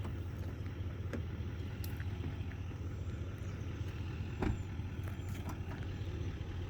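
Truck engine idling steadily with a low hum, with one short knock about four and a half seconds in.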